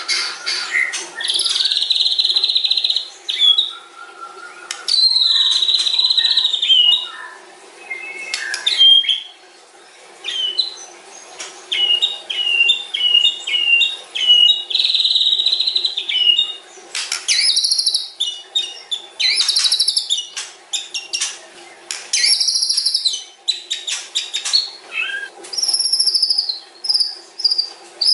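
White-rumped shama singing a long, varied song of whistled phrases, rapid trills and chattering clicks that change every second or two.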